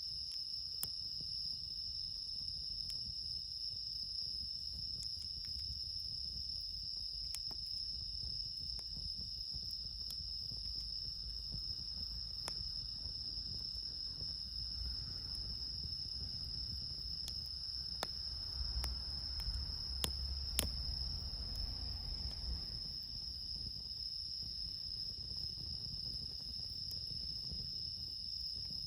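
Steady high-pitched chorus of crickets and other night insects, bell crickets among them, with a few sharp isolated pops from a wood campfire crackling.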